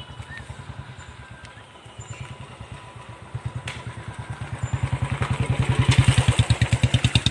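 A small engine running with a fast, even throb, growing steadily louder over the last few seconds as it comes closer.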